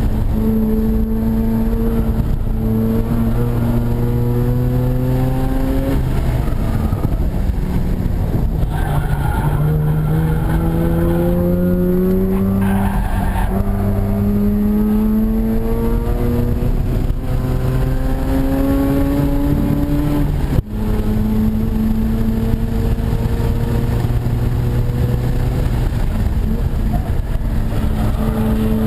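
Mazda RX-8's two-rotor rotary engine, with aftermarket intake and header-back exhaust, pulling hard at full throttle from inside the cabin. The revs climb for several seconds, then drop at each gear change or lift, over and over. There is a brief sharp break in the sound about twenty seconds in.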